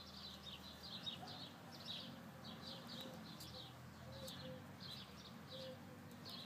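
Small birds chirping: faint short high chirps repeating several times a second without a break.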